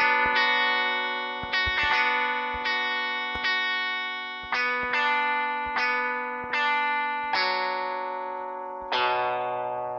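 Guitar, most likely electric through effects, playing a slow run of notes and chords that each ring out. A new one is struck every second or so, and the last, about nine seconds in, is left to fade.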